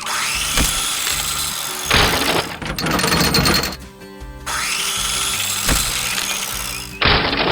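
Cartoon machine sound effects over background music: a drill-like whir that starts with a rising whine and then holds, heard twice, broken by short harsh bursts of noise.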